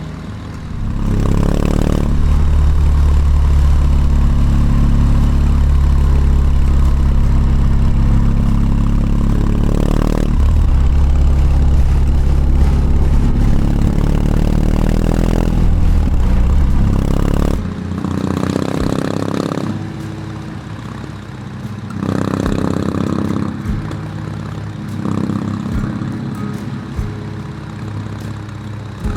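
BMW R18 Classic's big air/oil-cooled boxer twin running under load on the move, its pitch rising and falling as the throttle is opened and gears change. About two-thirds of the way through it drops much quieter, with a few shorter rises in revs after.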